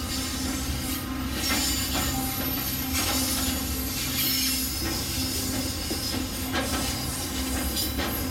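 Steam-hauled heritage train running along the track: steady wheel-on-rail noise with scattered clicks and some wheel squeal.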